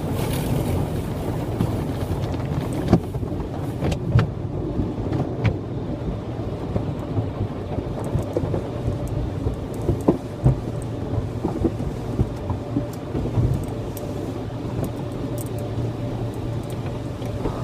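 Automatic car wash heard from inside the car's cabin: a steady low rumble of the wash machinery, with water and equipment hitting the car body in irregular knocks.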